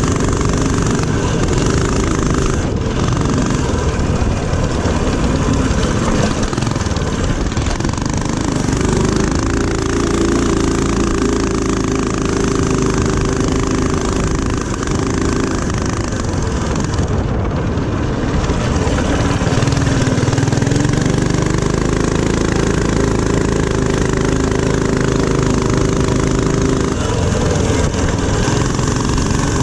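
Mini bike's small single-cylinder four-stroke engine running hard on a lap, with its revs rising and falling over a steady rush of wind and road noise.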